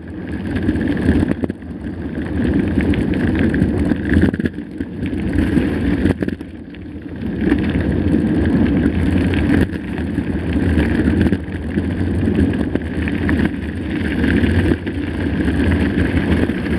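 A mountain bike riding along a trail, its tyres rolling over the ground with wind rumbling on the microphone. The rumble dips briefly twice and then picks up again.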